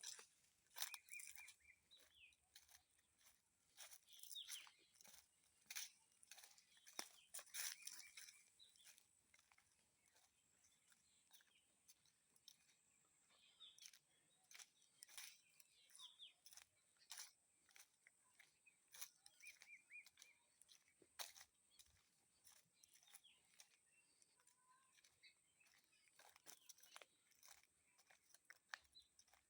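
Faint, irregular crunching and crackling clicks, with a few short, faint bird chirps and a steady high-pitched insect hum behind them.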